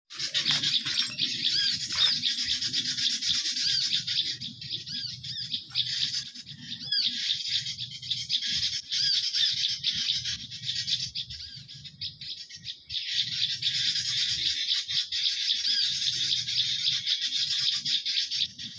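Dense, continuous twittering of many small songbirds chirping over one another, a bird-luring call meant to draw garden birds in. It eases briefly about two-thirds of the way through, then picks up again.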